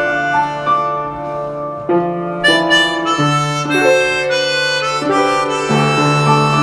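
Harmonica playing a melody in long held notes, with a low sustained tone underneath.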